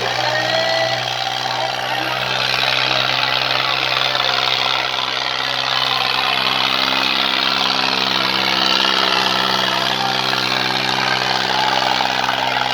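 Tractor diesel engine running at a steady speed, with a dense background hiss.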